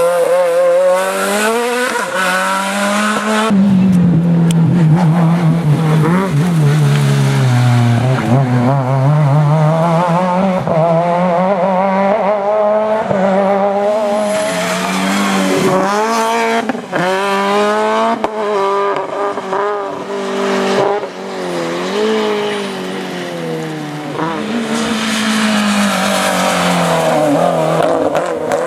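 Rally car engines revving hard through the stage, the pitch climbing under acceleration and dropping back at each gear change and lift, over and over.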